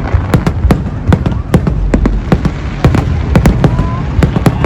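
Fireworks display bursting in rapid, irregular bangs, several a second, over a low rumble. A faint short whistle comes near the end.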